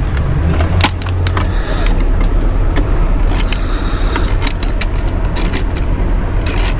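Scattered small metal clicks and scrapes of hardware and hand tools being handled while trying to start a screw into its mounting hole, over a steady low rumble.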